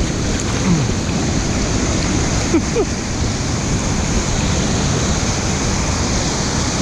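Small waterfall's rushing water: a loud, steady wash of falling and flowing water heard up close.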